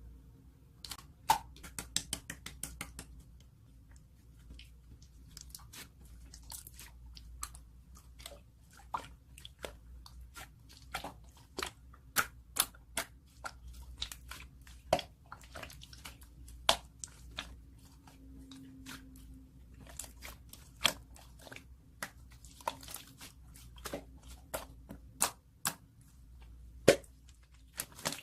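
Slime being squished and pressed by hand, giving irregular sharp pops and clicks, sometimes several in quick succession.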